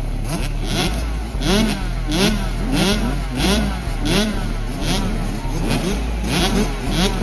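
Several 65cc two-stroke motocross bikes running together, each engine revving up and dropping back over and over as the riders work the throttle and shift.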